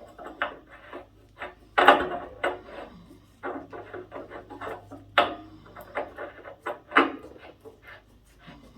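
Irregular knocks, clicks and scrapes of hand tools and metal pipe fittings being handled, with the strongest knocks about two, five and seven seconds in, over a faint steady low hum.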